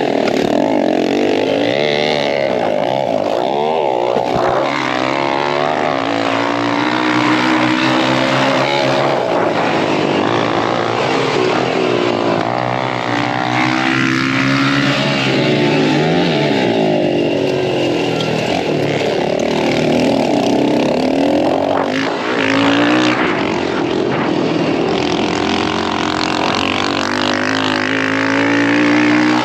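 Dirt bike engine revving up and down again and again as the rider accelerates and backs off, heard from on the bike.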